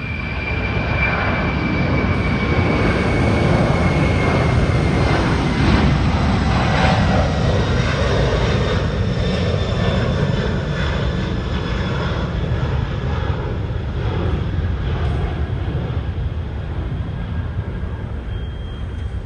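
An airplane passing overhead: a loud, steady rumble that swells over the first few seconds and then slowly fades, with a high whine that falls slowly in pitch.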